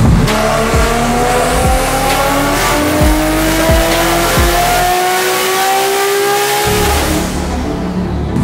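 Toyota MK4 Supra's built 2JZ-GTE inline-six, single Precision 8685 turbo, making a full-throttle pull on a hub dyno, its note climbing steadily in pitch with rising rpm until the throttle is closed about seven seconds in. Music with a regular low beat plays underneath.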